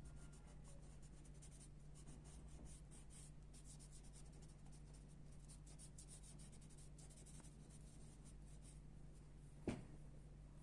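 Pencil scratching on paper in many short, quick strokes, faint, over a low steady hum. A single sharp click comes near the end.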